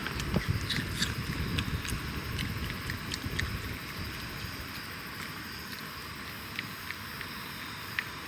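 Rain on a tent: a steady hiss with scattered sharp drop ticks, and a low rumble that eases after about three seconds.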